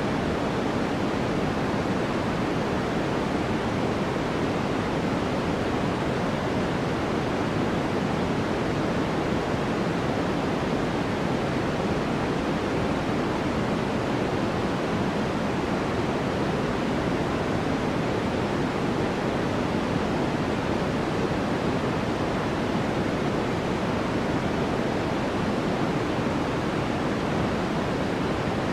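Steady white-noise track for focus: an even, unchanging hiss, heavier in the lower-middle range than at the top, with no other sounds.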